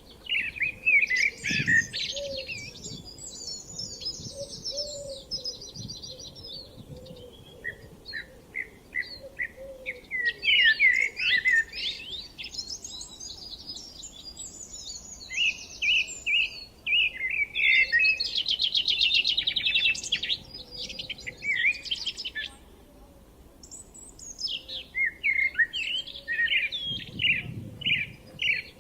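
Songbirds singing in spring, several at once: strings of quick chirps, repeated whistled notes and fast buzzy trills that overlap, with a short lull a little after twenty seconds in.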